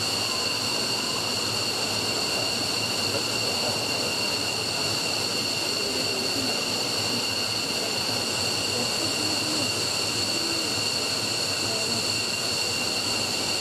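F-15's Pratt & Whitney F100 turbofan engine running steadily on a ground run: a steady high-pitched whine over an even rushing noise, holding the same level throughout.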